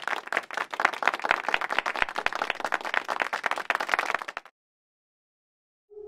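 Applause: many hands clapping in a dense, irregular patter that cuts off abruptly about four and a half seconds in.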